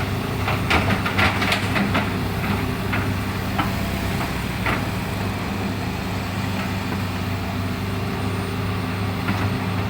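Hitachi Zaxis 200 excavator's diesel engine running steadily. A quick run of clanks and knocks in the first two seconds, then single knocks every second or two.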